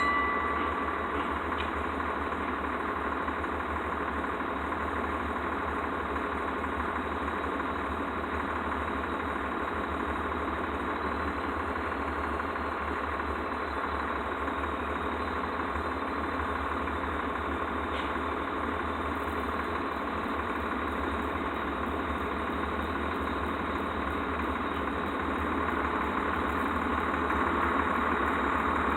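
Diesel locomotive engine running steadily at a low, even rumble, growing a little louder near the end.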